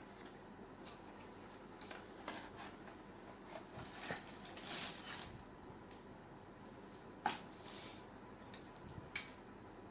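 Parts of a metal barbecue grill being handled while it is unpacked: scattered light clinks and taps, a short rustle about halfway through, and one sharp knock, the loudest sound, about three-quarters of the way in.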